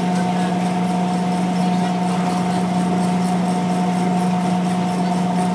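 Keck-Gonnerman steam traction engine belted to a sawmill, the rig running steadily: an even mechanical hum with several steady tones held throughout, with no sawing strokes or changes.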